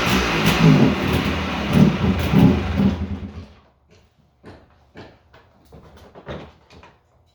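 Honda TRX250R's two-stroke single-cylinder engine running cold with a few throttle blips, then stopping about three seconds in. A few faint clicks and knocks follow.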